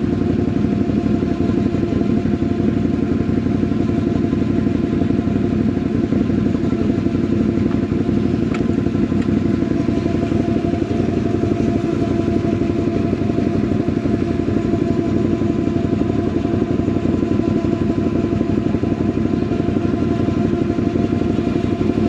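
ATV engine running steadily at idle, with no revving.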